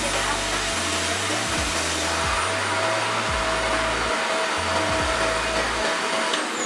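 Revair reverse hair dryer running: a loud, steady rush of air with a steady whine. It is switched off near the end, and its pitch falls as the motor winds down.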